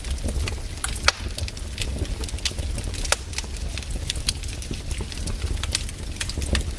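Campfire of burning wood crackling, with irregular sharp pops and snaps over a low rumble; the loudest pops come about a second in and about three seconds in.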